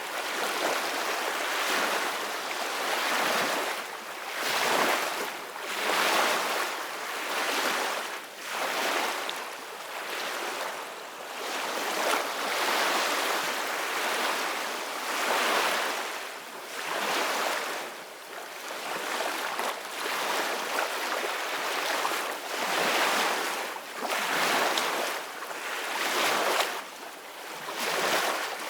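Ocean waves breaking and washing in, the surf noise swelling and ebbing about every two seconds.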